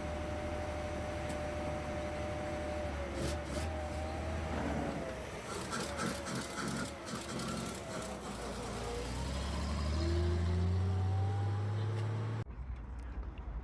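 1937 Leyland fire engine's straight-six petrol engine running, growing louder with rising pitch near the end as it pulls away, before an abrupt cut.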